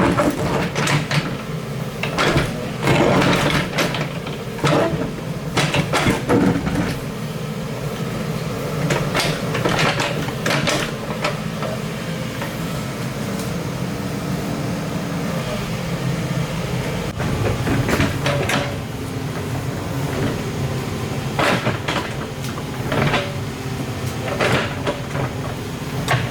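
Excavator engine running steadily, with repeated clunks and scrapes scattered through, several seconds apart, as it works.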